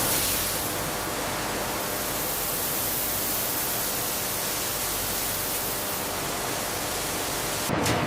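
A steady, even hiss like static. Near the end it gives way abruptly to a clatter of sharp clicks.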